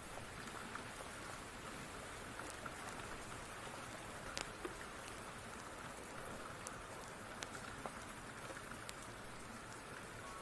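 Steady rain hiss with a wood fire crackling: scattered sharp pops over the even rain noise.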